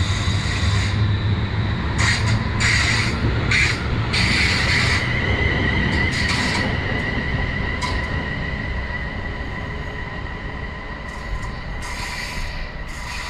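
Train running on the rails with a steady high-pitched wheel squeal over a low rumble, slowly fading as it moves away.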